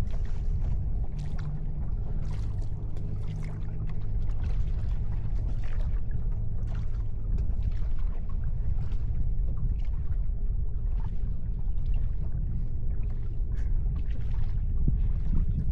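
Tour boat under way: a low, steady engine hum with water splashing and swishing along the hull.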